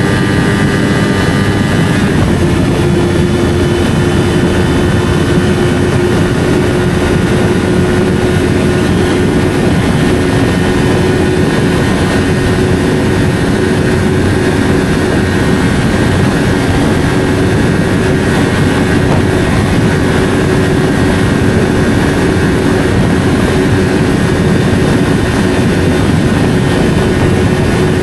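Yamaha R3's 321 cc parallel-twin engine running through an SC-Project slip-on exhaust at steady riding revs, under heavy wind rush. The engine note changes about two seconds in, then holds steady.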